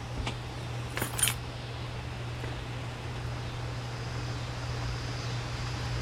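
Steady rain hiss over a low constant hum, with a few light metallic clinks near the start and a short cluster of them about a second in.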